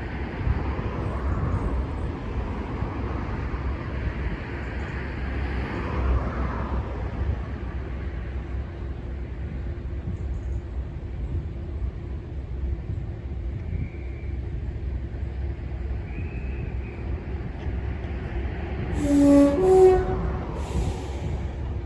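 A heavy engine running steadily with a low rumble, joined near the end by a few short hisses of air and brief pitched tones.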